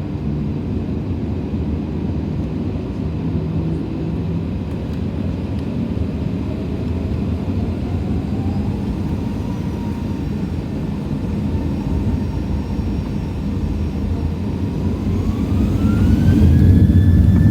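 Steady engine rumble heard inside a jet airliner's cabin. From about the middle a faint whine rises in pitch in steps, and near the end the noise grows louder as the engines spool up.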